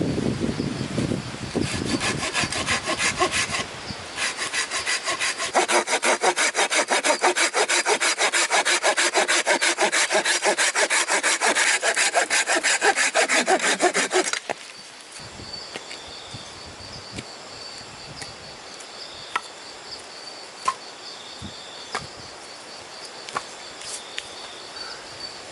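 Hand saw cutting through wood with quick, even back-and-forth strokes: a short spell, a pause, then a longer run that stops about fourteen seconds in. After that come a faint steady insect buzz and a few sharp clicks.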